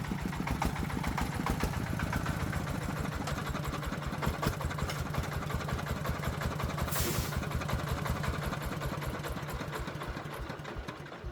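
Engine of a farm truck running with a steady, even beat, fading away near the end. A short hiss comes about seven seconds in.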